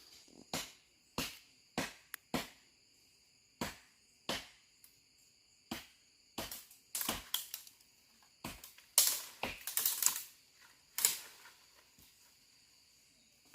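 An irregular series of sharp knocks, roughly one or two a second, bunching faster and louder in the second half, like a hand tool striking during building work. Crickets chirp steadily underneath.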